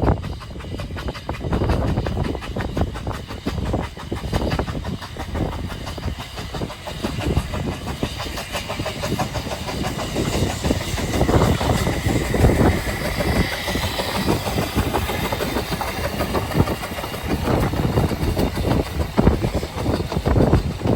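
Narrow-gauge Ffestiniog Railway train running, its wheels clicking and knocking over the rail joints, with a thin high tone around the middle.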